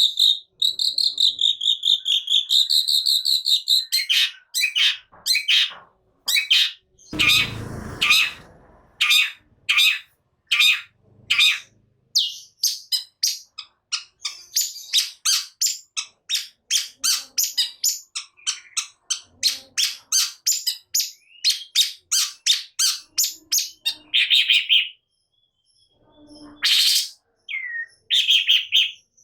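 Long-tailed shrike (cendet) singing vigorously. A wavering high trill opens it, followed by long runs of short sharp notes, about two a second. A harsh rasping call comes about seven seconds in.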